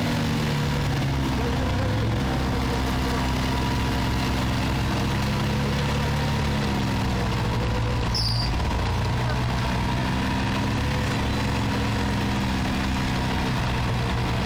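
An engine running steadily at idle, its pitch drifting slightly up and down. A brief high chirp sounds once about eight seconds in.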